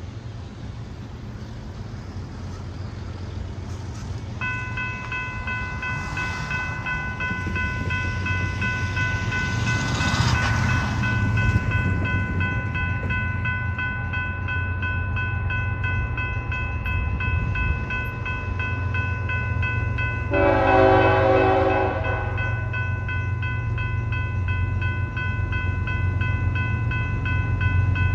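Approaching train: a low locomotive rumble grows steadily louder while a steady high ringing starts about four seconds in. The locomotive horn sounds one loud chord of about a second and a half roughly twenty seconds in, and a second blast begins right at the end.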